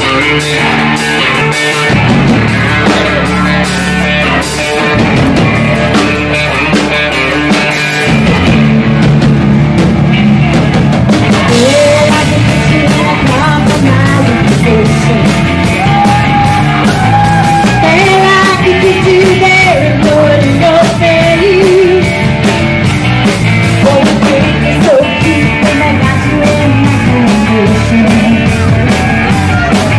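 Live rock band playing loudly: electric guitars, bass guitar and drums, with a melody line rising and falling over the band from about twelve seconds in.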